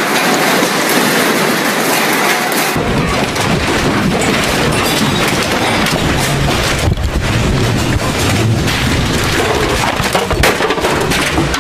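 Loud rumbling and rattling noise of strong earthquake shaking, with a deep rumble coming in about three seconds in.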